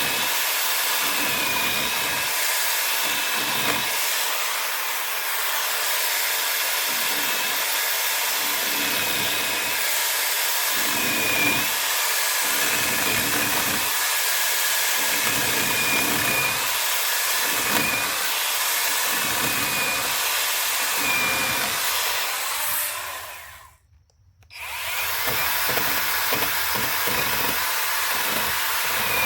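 Angle grinder running and grinding into the wood of a log's saddle notch, its motor pitch wavering as it is pressed in and eased off. It cuts out briefly about three-quarters of the way through, then starts again.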